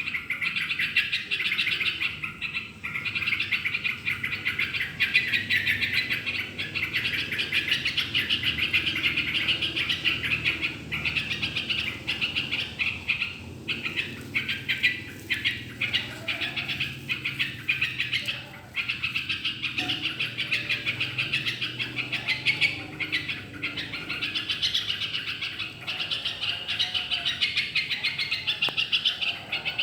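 Trocok (olive-winged bulbul) birdsong: a continuous, rapid, busy chattering, with lower whistled notes joining in during the second half.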